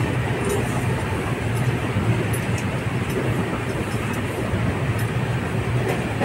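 Steady running noise of the Kerala Express passenger train in motion, heard from inside a crowded coach.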